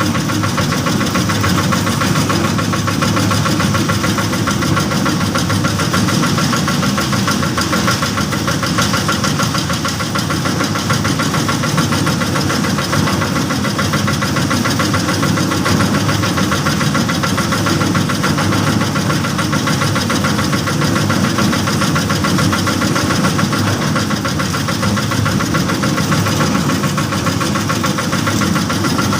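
Small engine of a bored-pile concrete-casting machine running steadily at a constant speed.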